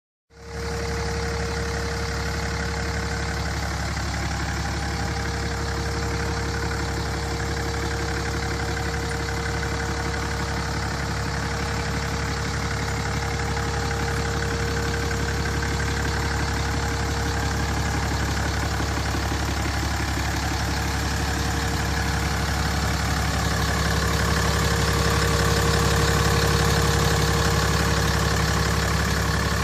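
Cummins turbo-diesel inline-six of a 2008 Ram 2500 idling steadily, with a steady tone over the engine sound. It gets a little louder about 24 seconds in.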